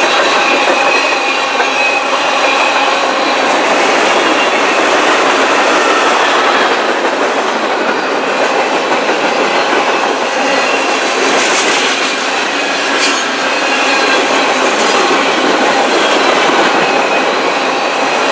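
A train passing close by: steel wheels rolling over the rails with clickety-clack and a thin, steady squeal of several high tones, loud and continuous throughout.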